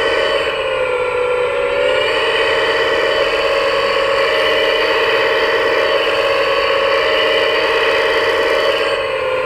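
Steady electric whine of an RC model's hydraulic pump, its pitch sagging briefly about half a second in and again near the end as it takes load.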